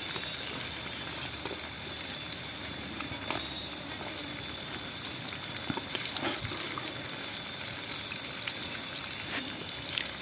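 Garlic and shallots frying in oil in a pan over a wood fire, a steady sizzle, with a few sharp knife taps as ingredients are sliced on a tree root.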